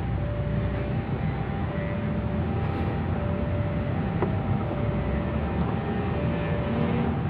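Two-tone electronic warning signal alternating high and low, roughly a note every half second to a second, over a steady low rumble, typical of a railway level crossing alarm sounding as a train is due.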